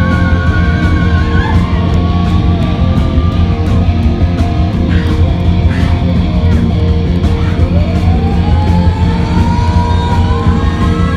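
Live rock band playing loud: electric guitar over bass and steady drum hits. About eight seconds in, a long sustained note glides up in pitch.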